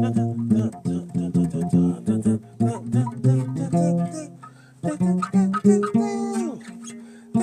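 Bass guitar played solo as a melodic line of quick plucked notes. There is a short break about halfway through, and near the end a held note slides downward in pitch.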